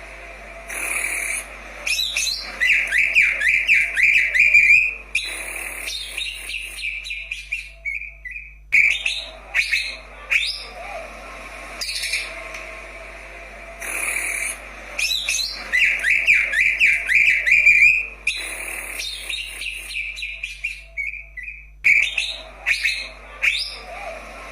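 Green leafbird (cucak ijo) singing: bursts of sharp chirps and whistles, the loudest a rapid warbling trill lasting a couple of seconds, and the same sequence of phrases coming round again about every 13 seconds.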